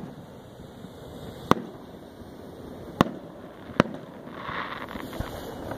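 Aerial fireworks shells bursting: three sharp bangs spaced a second or so apart, followed by a brief crackle a little after four seconds and a small pop near the end.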